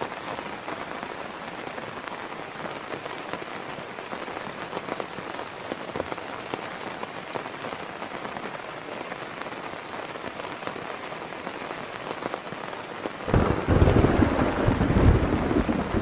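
Heavy rain falling steadily. About 13 seconds in, a loud, low crack of thunder breaks in and rumbles on.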